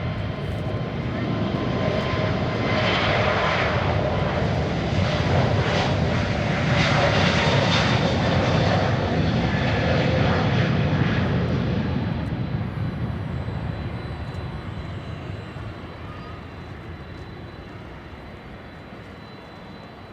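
All Nippon Airways Airbus A321neo's jet engines at take-off thrust, a steady roar that swells to its loudest about seven to ten seconds in, then fades steadily as the aircraft moves away.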